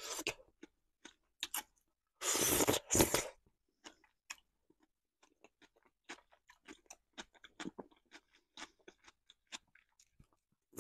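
Close-miked chewing of soft food, with many small wet mouth clicks. About two seconds in come two louder bursts of noise, each about half a second long.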